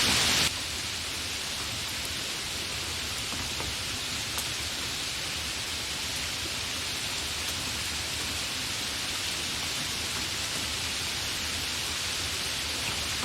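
Steady rain falling, an even hiss with a few single drops ticking. About half a second in, the sound suddenly drops to a quieter, softer rain.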